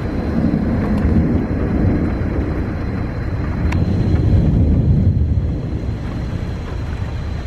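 Thunder from a supercell thunderstorm rumbling low and drawn out, swelling to its loudest about two-thirds of the way through.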